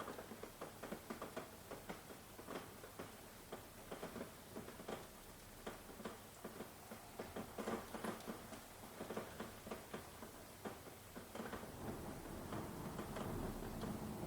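Rain falling, heard as many irregular drops pattering and ticking on a surface over a faint hiss. A low rumble of thunder swells in near the end.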